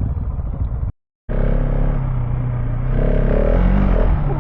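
KTM 690 Enduro R single-cylinder engine running under way, with rough wind noise on the microphone. About a second in the sound cuts out for a moment, then the engine comes back with a steady note that rises briefly as the throttle opens and settles again near the end.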